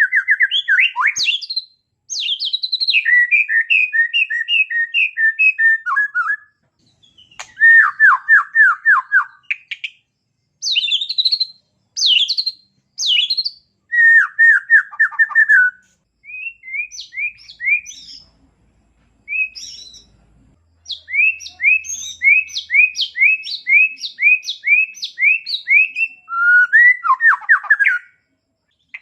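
Small songbird singing: phrases of rapid repeated sharp notes and quick descending trills, each a second or two long, with short pauses between them.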